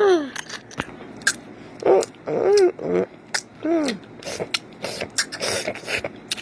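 Short high-pitched wordless vocal sounds, about six of them, each rising and falling in pitch, mixed with scattered clicks and taps.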